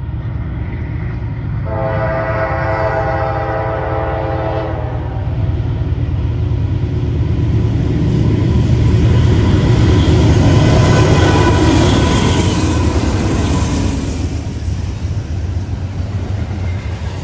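Norfolk Southern diesel locomotives sounding a multi-note air horn in one long blast of about three seconds, then the freight train running past, loudest a few seconds later as the locomotives go by, followed by the rumble and clatter of double-stack container cars rolling past.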